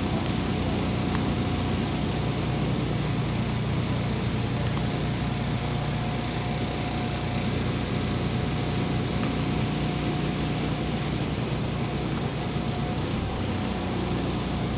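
MAZ 203 city bus heard from inside the passenger cabin: the engine runs with a steady low drone under even road and cabin noise, with a faint steady whine held throughout.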